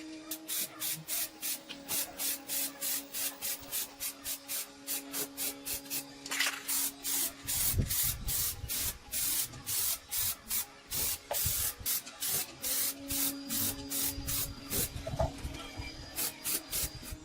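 A part being abraded by hand with quick, even back-and-forth strokes, about three a second, each stroke a short rasping hiss.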